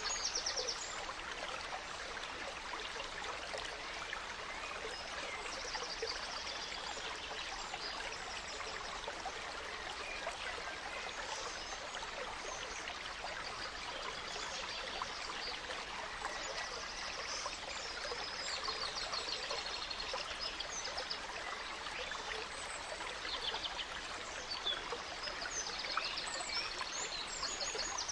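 Small stream running steadily over stones, with songbirds calling now and then above it: short trills and chirps at intervals.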